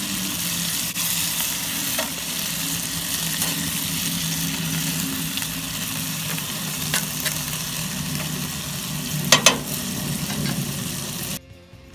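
Black-eyed peas, onions and mushrooms sizzling steadily in a cast iron skillet over hot coals, while a metal spatula stirs and scrapes the pan, clinking a couple of times about nine seconds in. The sizzle cuts off suddenly just before the end.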